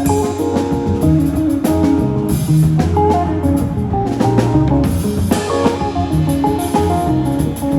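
A live band playing instrumental music: electric guitar, bass and drum kit, with a steady beat and no singing.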